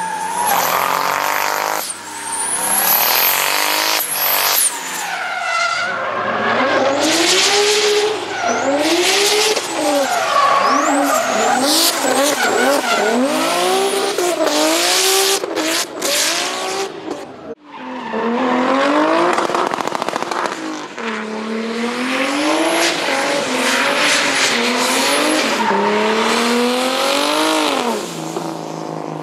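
Turbocharged BMW drift cars' engines revving up and down again and again, with tyres squealing and skidding throughout. The sound drops out briefly a little over halfway through, then the revving resumes.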